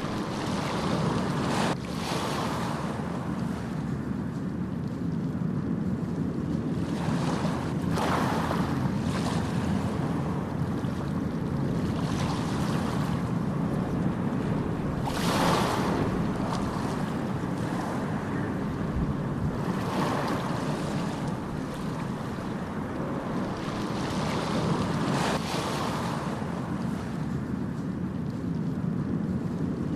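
Ocean surf: a steady wash of waves, with a wave breaking and swelling louder every few seconds.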